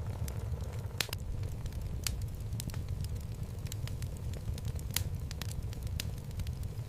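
Wood fire burning in a fireplace: a steady low rumble of flames with irregular sharp crackles and pops of the logs, the loudest about a second in and near five seconds in.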